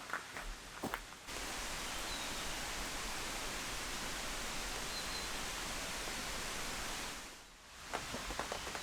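Steady rain falling, an even hiss that cuts in abruptly about a second in and fades away near the end, with a few light taps just before and after it.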